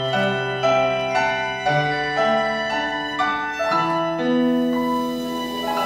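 Instrumental music on a keyboard instrument: a slow line of held notes and chords, a new note struck about every half second to second.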